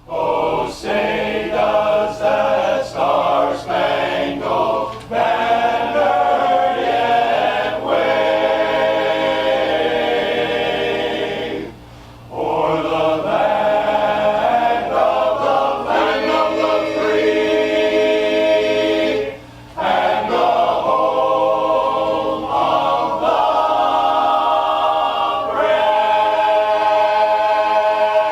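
Choir singing in harmony, long held notes with two short breaks, about twelve and about twenty seconds in.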